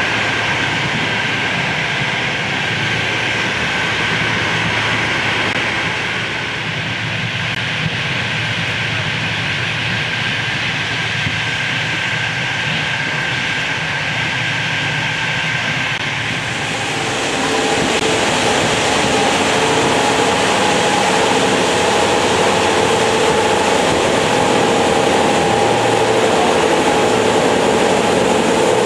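Passenger train running: a steady rumble and hiss with a faint high tone. About two-thirds of the way through it grows louder and a new steady, pitched hum sets in.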